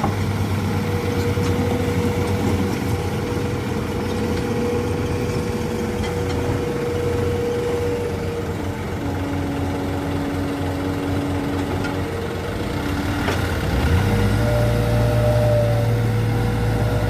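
Dump truck's diesel engine running steadily, growing louder and deeper about fourteen seconds in.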